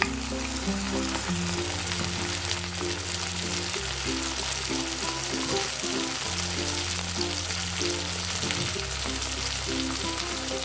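Sauce sizzling in a hot wok of oil and sautéed onions, with a spatula stirring it. Background music with a steady bass line runs underneath.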